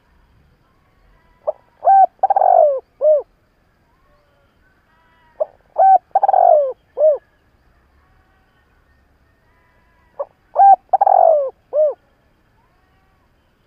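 Spotted dove cooing: three phrases about four seconds apart, each a short note followed by a longer falling coo and a closing note.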